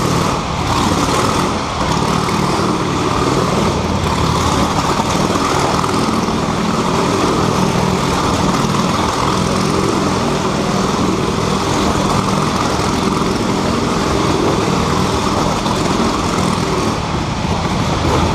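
A 1924 Indian Scout's V-twin engine running at a steady, loud pitch as the motorcycle circles the wooden wall of a Wall of Death drum.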